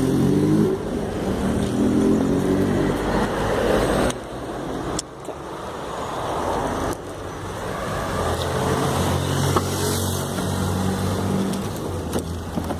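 Car engine running as the car drives off. Its pitch climbs and then drops back sharply twice, about four and seven seconds in, like gear changes while pulling away.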